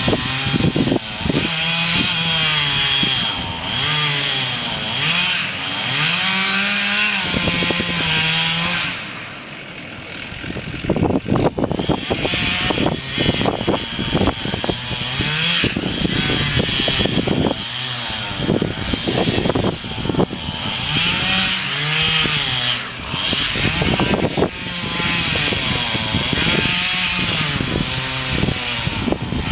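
Chainsaw engine running at high revs while cutting wood, its pitch repeatedly rising and falling as the chain loads up in the cut. It eases off about nine seconds in, then comes back with a run of sharp knocks before cutting steadily again.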